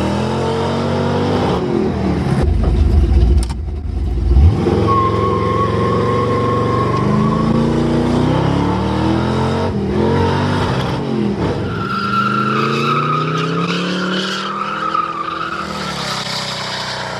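Heavy diesel construction machine working, its engine running loud and rising and falling in pitch, with a heavy low rumble a few seconds in and a high steady whine at times.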